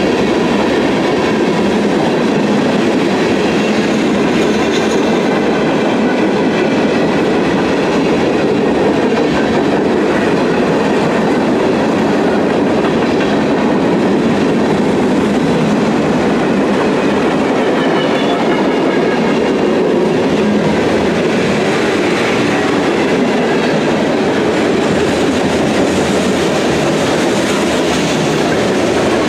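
Freight train's tank cars and covered hopper cars rolling past close by: a steady rumble of steel wheels on the rails.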